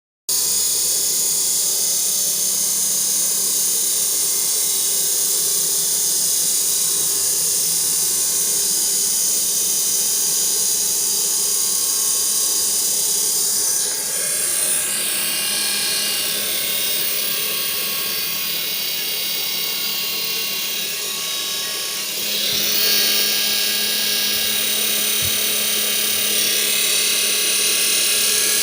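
Heavy-duty commercial treadmill motor running under repair with a steady high whine. The tone shifts about halfway through and again about two-thirds of the way in.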